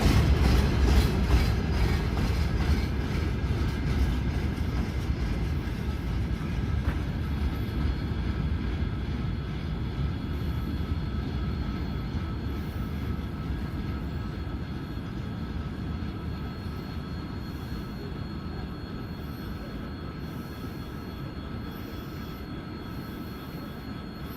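A train passing and moving away: wheel clacks over the rail joints in the first couple of seconds, then a steady low rumble that slowly dies away.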